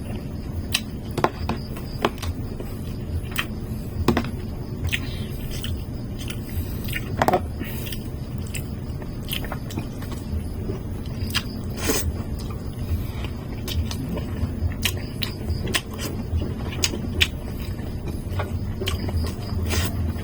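A person chewing and biting through fried chicken and chop suey close to the microphone, with irregular sharp clicks and smacks scattered throughout, over a steady low hum.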